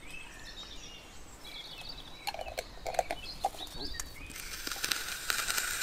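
Small birds chirping, with a few light knocks and, from about four seconds in, a steady scratchy hiss.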